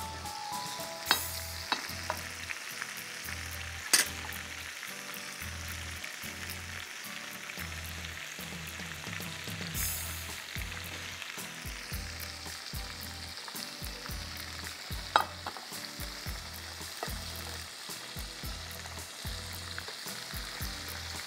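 Flour-coated boneless chicken pieces deep-frying in oil in a small karahi: a steady sizzle. A few sharp clinks of a utensil against the pan, the loudest about four seconds in.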